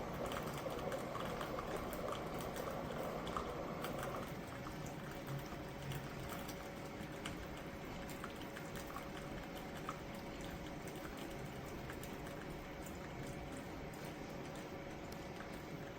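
Ninja Pod & Grounds single-serve coffee maker brewing, liquid running into the cup with a fairly quiet hiss that stops about four seconds in. After it, a faint steady hum with scattered small ticks.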